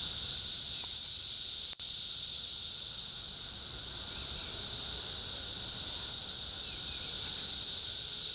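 Chorus of many cicadas in the trees, a dense, steady high-pitched drone, with a momentary break in the sound about two seconds in.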